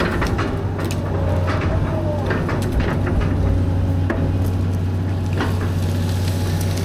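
Caterpillar 315B excavator's diesel engine running with a steady low drone, while sharp cracks and knocks come every second or so as it works in brush and timber. A brief wavering whine comes in about a second in.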